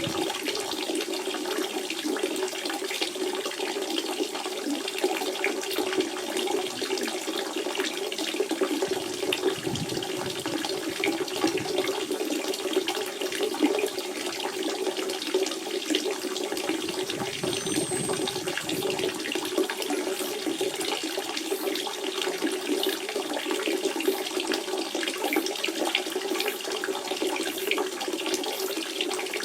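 Natural spring water running steadily, an unbroken flowing splash with a constant low gurgle.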